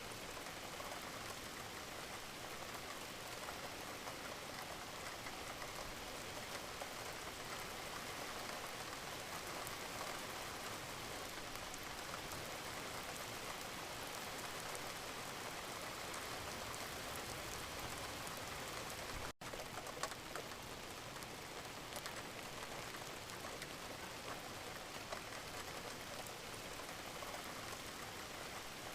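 Steady gentle rain: a dense, even patter of many small drops. It cuts out for an instant about two-thirds of the way through, then carries on as before.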